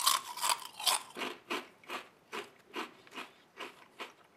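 Crisp cassava crackers (krupuk) being bitten and chewed: a few sharp crunches in the first second, then steady crunchy chewing at about two or three crunches a second.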